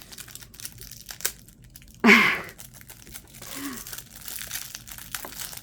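Packaging crinkling and tearing as a small, thin advent-calendar box is opened by hand, with crisp rustles and clicks throughout. A brief vocal sound comes about two seconds in.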